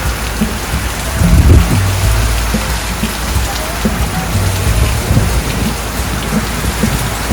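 Heavy rain pouring down in a severe thunderstorm, a dense steady hiss over a deep low rumble that swells loudest about a second and a half in.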